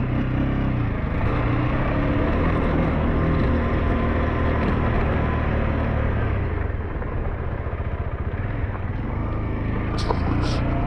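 SYM NH T 200 scooter's single-cylinder engine running at a steady pace. A few sharp clicks near the end.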